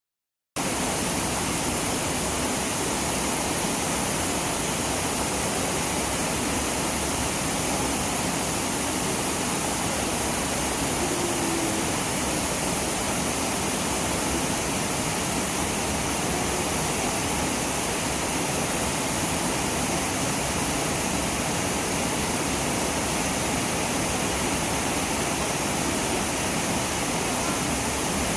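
Steady rushing noise of a waterfall, loud enough to drown out a voice, cutting in suddenly about half a second in.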